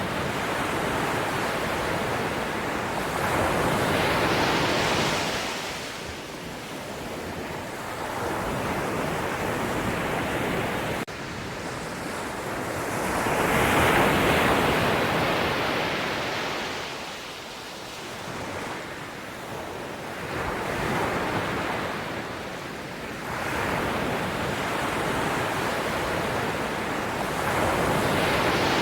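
Ocean waves breaking and washing on the shore: surf noise swelling and falling back every few seconds, loudest about halfway through.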